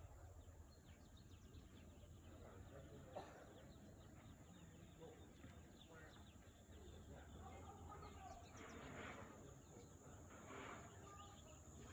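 Faint outdoor ambience with a low steady hum and scattered faint bird chirps.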